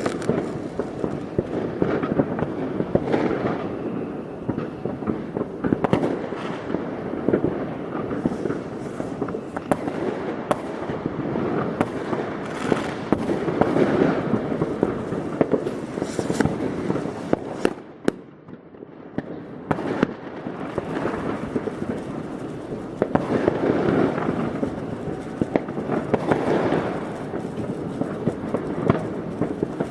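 New Year's Eve fireworks: a dense, unbroken barrage of rocket and firecracker bangs and crackling, easing off briefly about two-thirds of the way through before building up again.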